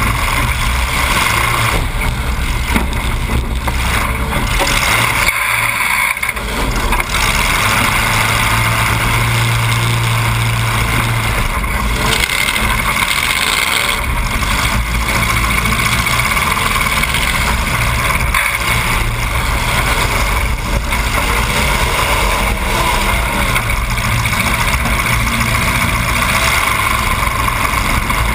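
Demolition derby car's engine running loud through open exhaust stacks that come straight up through the hood, heard from inside the car, with a steady low drone.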